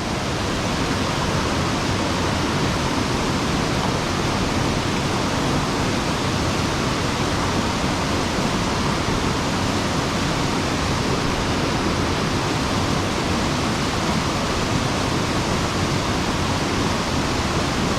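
Water pouring over a sabo (check) dam and rushing down a mountain stream: a loud, steady rush of water that does not change.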